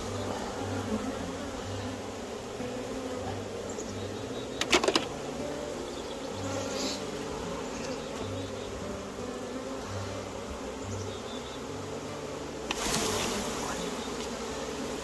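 Many honeybees buzzing in a dense, steady hum. A quick run of sharp knocks comes about five seconds in, and a short noisy burst near the end.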